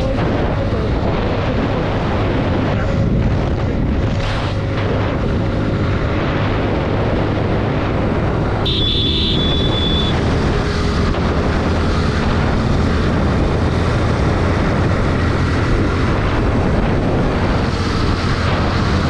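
Motorcycle riding at speed: the Suzuki Gixxer 155's single-cylinder engine runs steadily under heavy wind and road noise. A short high-pitched beep sounds about halfway through.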